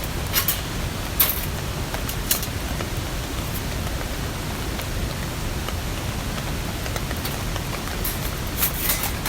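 Steady rain falling, with a few sharper drop impacts standing out, clustered early on and again near the end.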